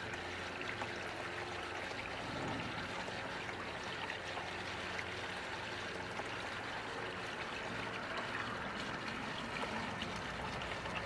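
Water from a garden hose running down guttering and trickling steadily into a recycling box as it fills.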